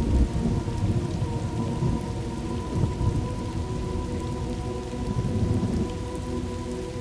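Thunderstorm ambience: steady rain with low, rolling thunder rumbling underneath, the rumble easing slightly toward the end.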